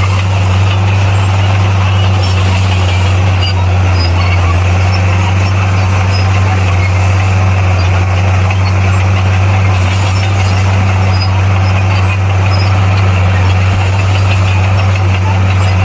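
Bulldozer's diesel engine running steadily under load: a constant low drone with a rough mechanical noise over it.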